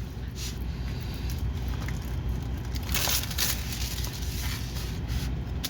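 Rustling and crackling of packaging being handled, with the strongest rustle about three seconds in, over a steady low hum.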